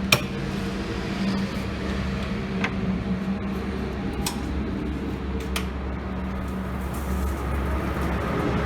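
Steady low machine hum with a few sharp clicks, the loudest just after the start.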